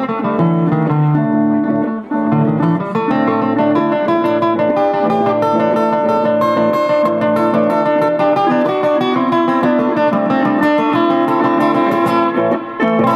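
Blues played on guitar: plucked notes over a steady accompaniment, unbroken throughout.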